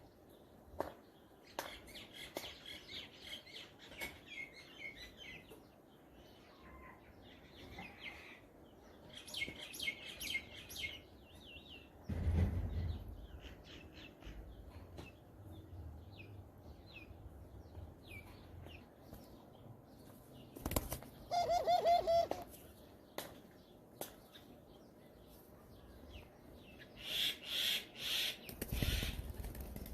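Birds chirping in repeated bursts, with wing flaps and a few low thuds. About two-thirds of the way through comes a louder, wavering animal call lasting about a second.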